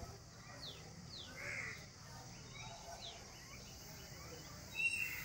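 Birds calling: several quick falling chirps and a louder short call near the end, over a steady high hiss of outdoor background noise.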